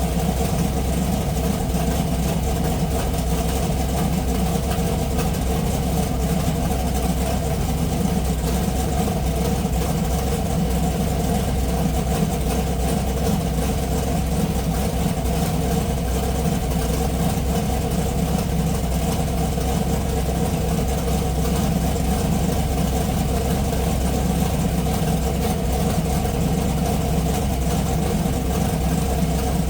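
Race car engine idling steadily at an even speed.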